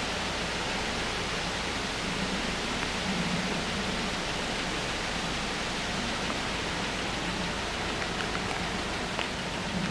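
Steady, even hiss of outdoor background noise, with a faint low hum that swells now and then.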